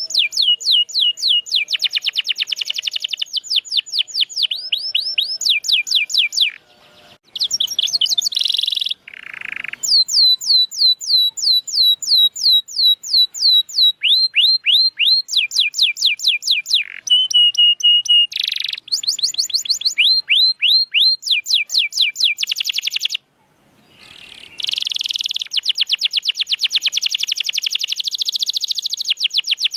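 Domestic canary singing a long, fast song of rapidly repeated trilled notes, changing from one phrase to the next, with two brief pauses.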